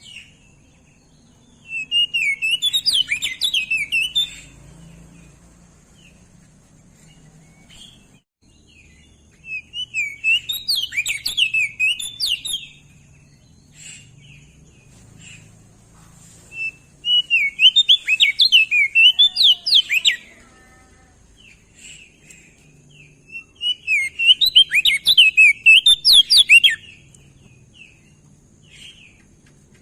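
Crested dark-eye (opior jambul) singing four fast warbling phrases, each about three seconds long, with roughly seven seconds between them.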